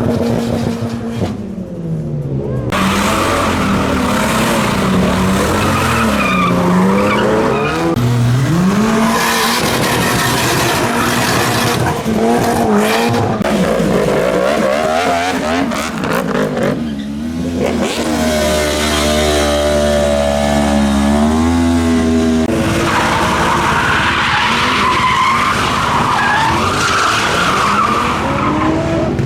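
A car engine revving hard, its pitch repeatedly rising and falling and held high for a few seconds in the middle, while the tyres squeal and skid.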